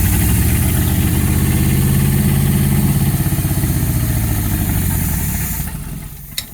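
Mercruiser 260 carbureted V8 boat engine running steadily on the new motor's first start-up, then dying away over about a second and stopping near the end, with a sharp click as it cuts out.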